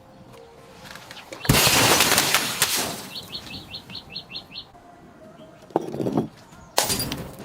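Glass smashing: a loud crash about a second and a half in with a shattering tail lasting over a second, then two shorter smashes near the end. Between them a small bird chirps a quick run of about eight short high notes.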